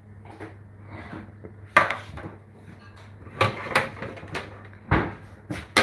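Kitchen clatter: a series of separate knocks and clacks as household items, dishes and cupboard or drawer fronts, are handled, over a low steady hum.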